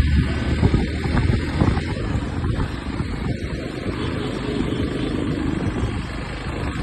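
Wind buffeting the microphone on a moving motorcycle, a dense low rumbling rush with the engine running underneath.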